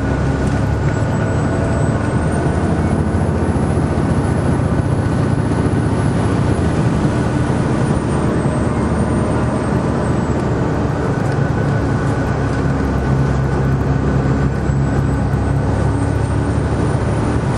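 Tour bus engine and road noise heard from inside the cabin: a steady, unbroken low rumble.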